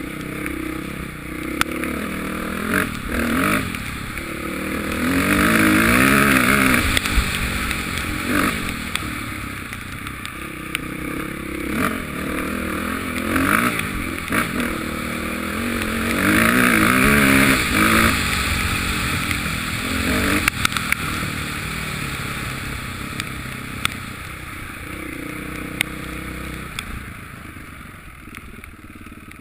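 Motocross motorcycle engines revving up and down, swelling loudest about six seconds in and again around seventeen seconds, then fading near the end, with occasional sharp clicks.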